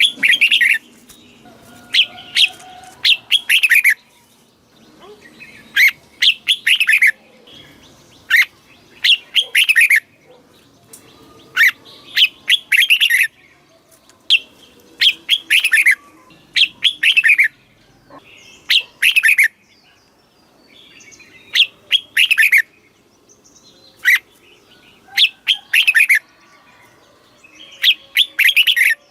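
Red-whiskered bulbul singing: loud, short phrases of several quick, downward-sliding notes, repeated every second or two.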